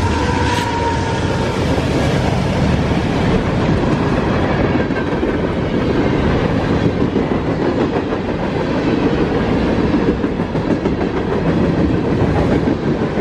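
Train passing close by: a steady loud rumble and clatter of wheels on rail. The last of a horn blast fades out about a second in, and the sound cuts off abruptly at the end.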